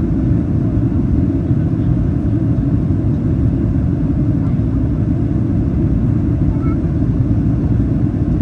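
Steady low cabin noise inside a Boeing 737-800 on approach: its engines and the air rushing past the fuselage.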